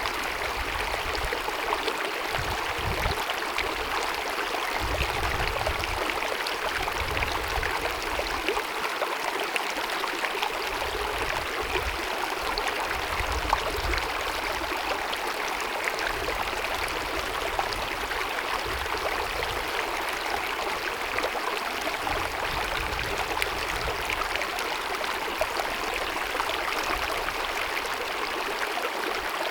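Small glacier-fed mountain stream babbling and rushing over rocks, a steady, even water sound with no pauses. A faint low rumble comes and goes underneath.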